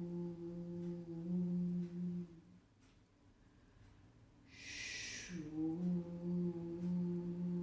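A woman voicing the qigong liver healing sound 'shoo', made to stimulate the liver: a long 'oo' held on one steady pitch stops about two seconds in. After a pause, a short 'sh' hiss leads into another held 'oo'.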